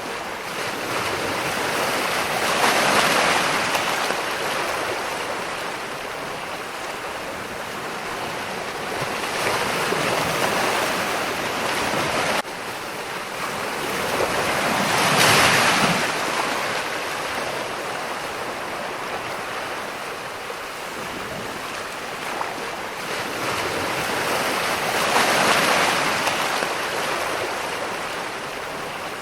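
Ocean surf: a steady wash of waves, swelling and fading as four waves come in, a few seconds to ten seconds apart. The hiss drops abruptly about twelve seconds in.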